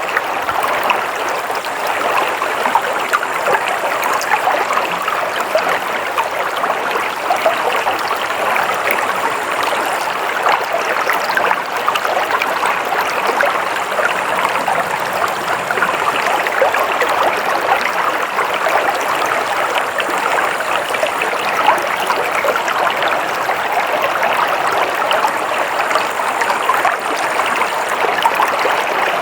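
Water flowing steadily over stones in a stream, a constant babbling and splashing with no pauses.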